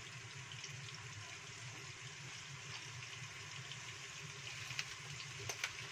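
Ground spice paste frying gently in oil in a nonstick wok: a faint, steady sizzle over a low hum, with a few light clicks near the end.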